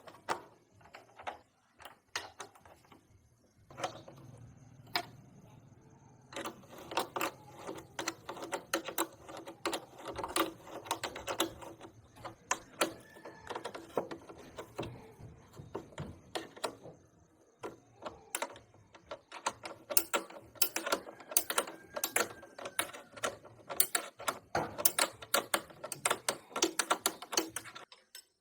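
Rapid, irregular clicking and tapping of hand-tool work on small metal motorcycle parts. The clicks are scattered at first and come thick and fast from about six seconds in until just before the end.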